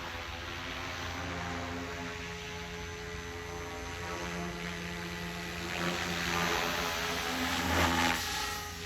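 SAB Goblin Raw 700 electric radio-control helicopter flying, its three-blade main rotor and motor making a steady hum that grows louder for a couple of seconds about six to eight seconds in.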